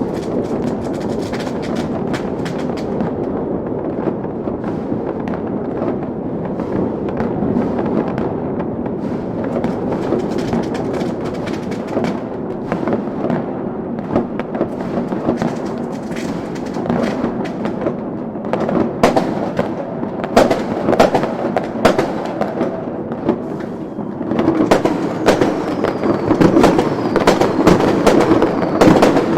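Chinese fireworks crackling: a dense, unbroken stream of small sharp pops that grows louder and busier in the last third.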